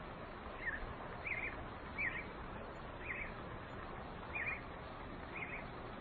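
A small bird repeating a short, quick chirp about once a second, six times, over a steady outdoor background hiss.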